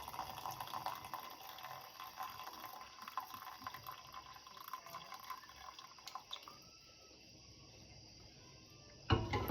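Hot simple syrup being poured into a heat-resistant cup, a trickling, splashing pour that runs about six seconds and then stops. A short thump comes near the end.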